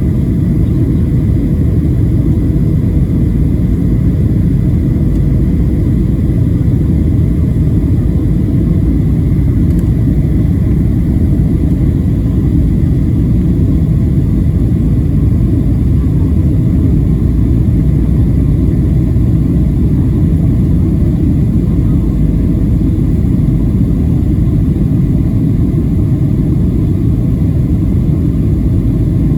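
Steady low cabin roar inside a Boeing 737-700 on approach: its CFM56 engines and the airflow over the fuselage, with faint steady whining tones above the rumble.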